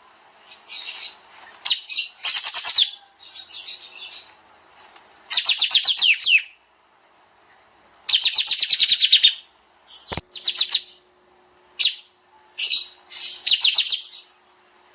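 Kapas tembak songbird singing in repeated bursts of rapid, tightly packed high-pitched notes with short pauses between them. A single sharp click sounds about ten seconds in.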